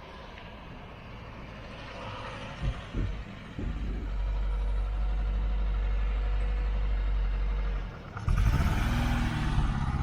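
1959 Mercedes-Benz 190SL's 1.9-litre four-cylinder engine running and growing louder, settling into a steady deep rumble. About eight seconds in the sound dips briefly and the engine note changes.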